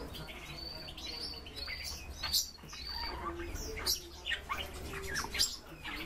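Small cage birds chirping and twittering in a run of short high calls, with a few louder sharp notes about two, four and five and a half seconds in.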